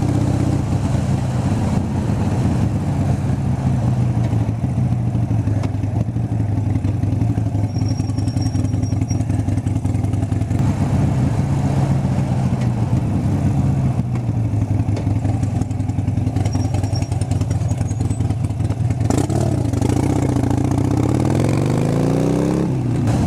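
Harley-Davidson Sportster's V-twin engine running at a steady cruise. Near the end its pitch rises as it accelerates.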